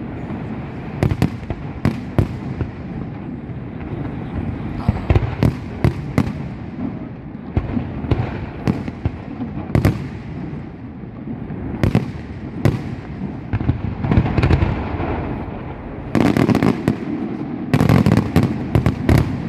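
Fireworks going off in quick succession: sharp bangs every second or so over a continuous low rumble. Near the end come two dense, rapid volleys of cracks.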